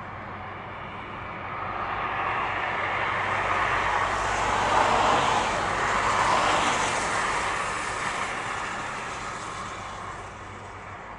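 Diesel passenger train crossing the iron-and-steel truss spans of a long rail bridge: a rushing rumble that swells over a few seconds, peaks in the middle and fades away.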